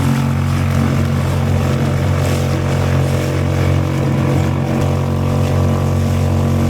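Suzuki 2.5 hp outboard motor running at a steady speed, driving the kayak along, with a steady hiss above the engine note.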